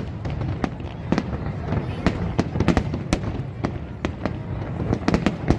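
Aerial fireworks display: many sharp bangs in quick, irregular succession over a continuous low rumble, a denser cluster near the end.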